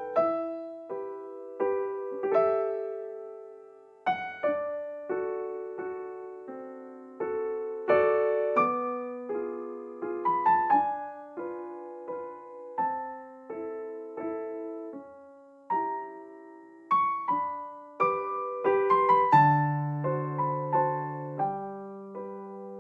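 Slow, gentle piano music: single notes and soft chords struck one after another, each fading away.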